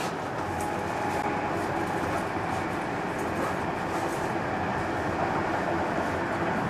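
Passenger train running, with a steady rolling noise from wheels on rails.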